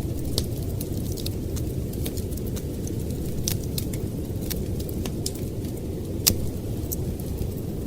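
Steady low rumble of storm wind with a wood fire crackling over it: scattered sharp pops and snaps, one louder pop about six seconds in.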